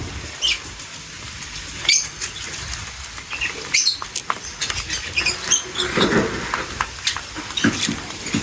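Small birds feeding: brief high chirps over many quick clicks and scratchy rustles, with a fuller burst of rustling about six seconds in.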